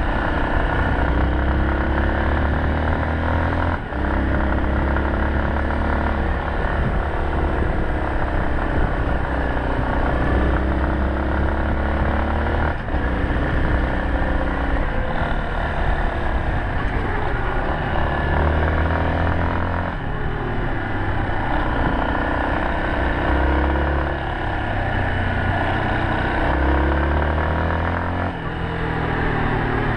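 Yamaha Serow 250's single-cylinder four-stroke engine running under way, its note rising and falling with the throttle. It dips briefly about four times.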